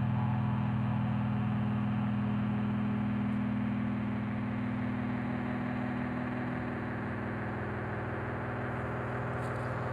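A steady low hum with a hiss over it, easing off slightly about four seconds in.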